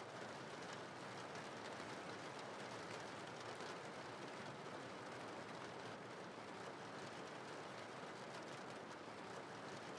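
Steady rain falling, an even, unbroken hiss and patter with no change in level.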